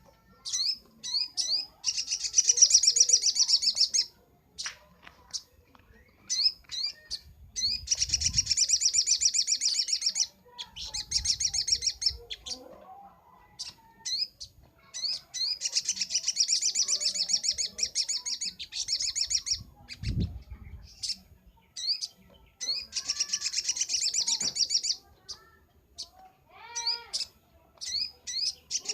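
Little spiderhunter (sogok ontong) singing: four long, rapid high-pitched trilling phrases a few seconds apart, with short sharp chirps between them.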